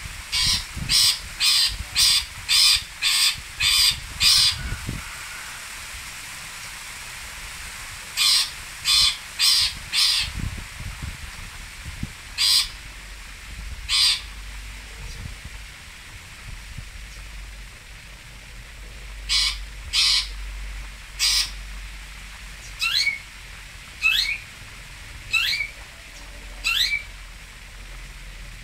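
Long-tailed shrike (cendet) giving short, harsh calls in bouts: a run of seven at about two a second, then four, a couple of single calls, then three. The last four calls each sweep sharply upward in pitch.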